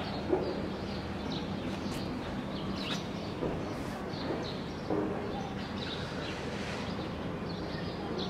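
Outdoor background noise with scattered faint bird chirps and a low steady hum, broken by a few brief soft sounds.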